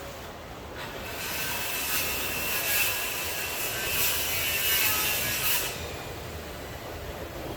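Rain falling, with a hissing surge that swells about a second in and dies away near the end.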